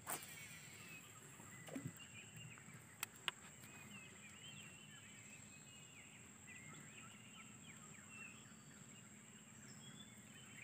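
Faint bird chirps: many short calls scattered throughout, over a steady high thin tone and low background noise, with a few sharp clicks in the first few seconds.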